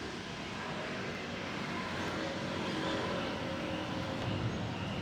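Diesel locomotive engine running, slowly growing louder.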